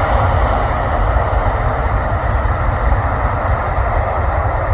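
Airbus A350's Rolls-Royce Trent XWB jet engines running with a steady roar and a deep low rumble beneath it.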